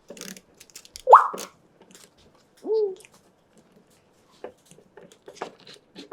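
African grey parrot calling: a sharp, quick rising whistle about a second in, then a short low hoot-like call near three seconds, with faint clicks and taps between.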